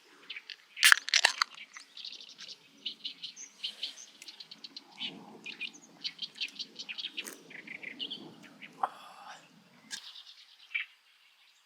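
Small birds chirping repeatedly, with a few sharp clicks and knocks about a second in.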